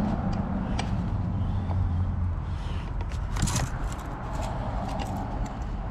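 Light metal clicks, taps and scrapes from clamps and a door-prep jig being fitted to a steel door, with a few sharper clicks about three and a half seconds in, over a steady low hum.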